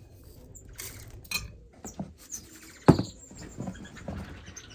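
Small cage finches giving short high squeaks and chirps amid light clicking and pattering, with one sharp knock about three seconds in.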